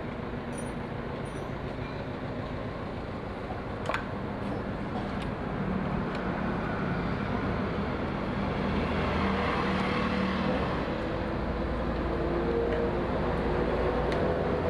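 An engine running steadily, growing louder and a little higher in pitch about halfway through, with a single knock about four seconds in.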